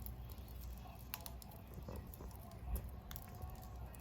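Wood fire crackling in a homemade stainless-steel secondary-combustion fire pit: irregular sharp pops and ticks over a low steady rumble, with one louder low thump a little under three seconds in.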